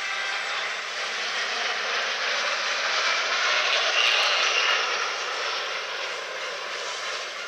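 Jet engines of Alpha Jet trainers in the Patrouille de France formation passing overhead: a rushing jet noise that swells to its loudest about four seconds in, then fades.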